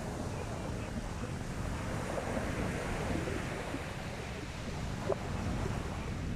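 Sea waves washing onto the beach in a steady rush, with wind buffeting the microphone.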